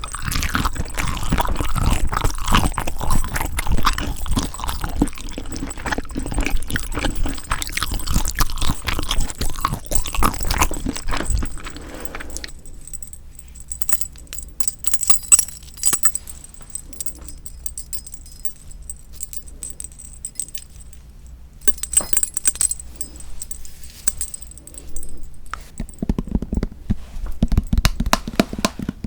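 Close-miked chewing of spicy marinated raw shrimp (yangnyeom saeujang), dense for about the first twelve seconds. A quieter stretch of faint scattered clicks follows, and the chewing picks up again near the end.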